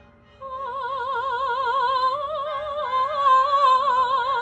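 A soprano sustaining a long, wordless sung note with wide vibrato, shifting pitch slightly in the middle, over a faint musical-theatre backing track.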